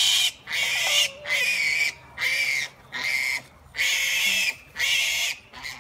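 A pig squealing, seven shrill, loud squeals in a steady rhythm, each about half a second long with short breaks between: the screaming of a pig that objects to being held and handled.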